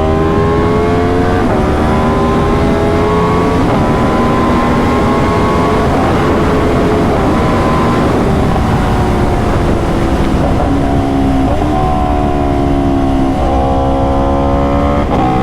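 Aprilia RSV4's V4 engine under way on the road, pulling through the gears with quick-shifter shifts. It climbs after a shift about a second in, drops off in the middle with a couple of short blips as it shifts down, then pulls up again with another shift near the end.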